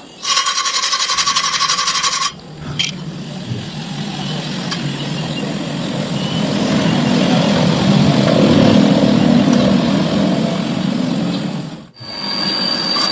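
Stick welding arc on thin square steel tube: after a harsh buzzing burst in the first two seconds, the arc burns with a steady crackling sizzle for about nine seconds, then cuts off suddenly near the end.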